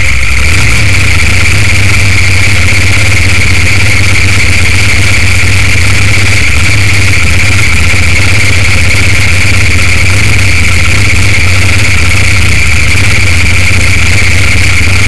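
Top Sportsman drag-racing Mustang's engine idling, loud and steady with no revving.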